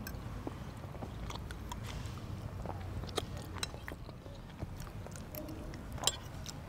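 Chewing, with scattered light clicks of metal forks against ceramic plates.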